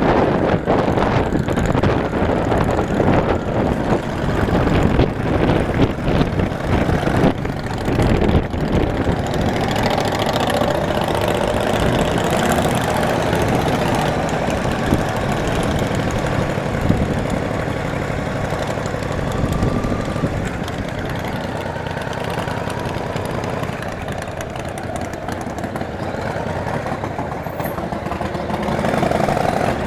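V-twin cruiser motorcycle engine running at low road speed, with wind buffeting the microphone in the first half and the engine note steadier and a little quieter later on.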